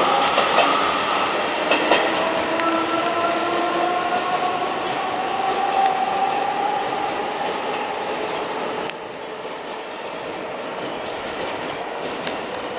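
Electric commuter train running past, its wheels squealing in drawn-out tones, one slowly rising in pitch, over the rumble of the cars, with a few sharp clicks in the first two seconds. The sound drops off suddenly about nine seconds in.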